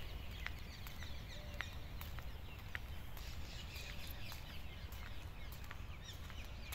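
Birds chirping repeatedly, short chirps and sharp chips, over a steady low rumble.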